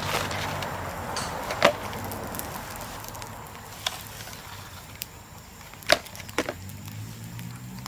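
Bamboo burning in an open bonfire, crackling with a few sharp cracks as heated sections split. The two loudest cracks come about one and a half seconds in and about six seconds in.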